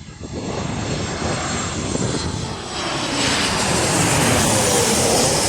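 Ryanair Boeing 737 on landing approach, its twin jet engines growing steadily louder as it nears and passes, peaking near the end with a tone that drops in pitch.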